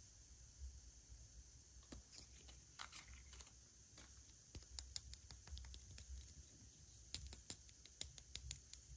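Faint, irregular clicking and crackling of plastic toy packaging being handled and opened, starting about two seconds in and growing busier near the end.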